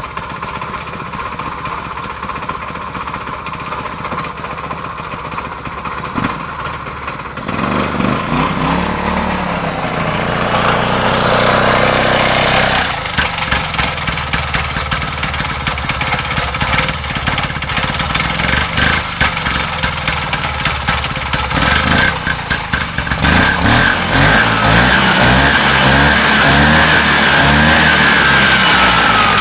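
Homemade quad bike's engine running through its exhaust: a steady idle, then revved up with rising pitch from about eight seconds in and dropping back suddenly about thirteen seconds in, then revved again near the end.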